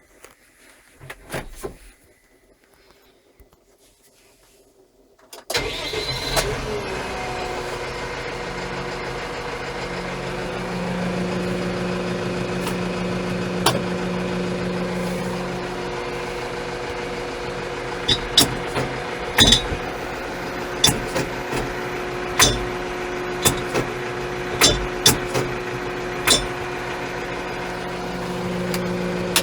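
A few clicks, then the Steyr 4075 Kompakt tractor's four-cylinder FPT diesel engine starts about five seconds in and runs steadily at idle. In the second half, a string of sharp clicks and clunks sounds over the engine.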